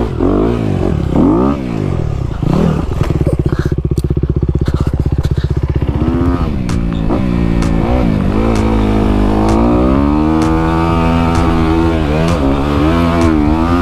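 Dirt bike engine revving up and down as it is ridden. It holds a steady, fast-pulsing note for a few seconds near the start, then rises and falls repeatedly with throttle and gear changes. Scattered sharp clicks sound over it.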